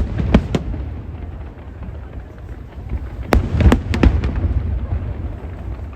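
Aerial fireworks shells bursting: two sharp bangs just after the start, then a cluster of four bangs between about three and four and a half seconds in, over a continuous low rumble.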